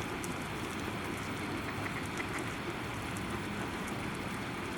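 Steady rumbling hiss of background noise, with faint scattered high ticks.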